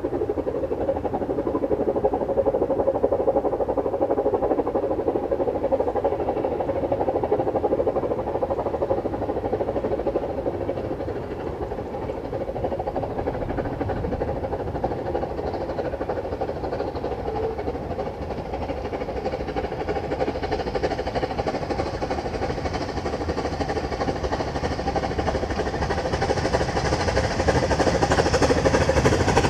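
Narrow-gauge train running on the line with a continuous rumble. It grows louder and brighter over the last few seconds.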